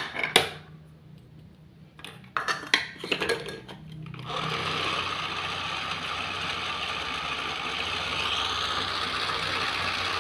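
A few sharp clicks and knocks as small plastic kitchen pieces are handled, then about four seconds in a small electric appliance starts and runs steadily with a whirring hiss over a low hum.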